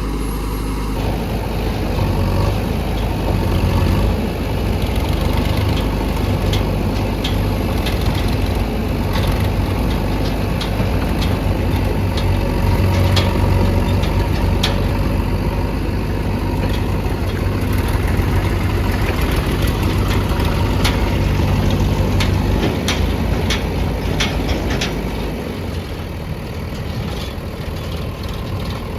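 Heavy diesel engine running steadily, with scattered sharp clicks and knocks over it. The engine note drops a little near the end.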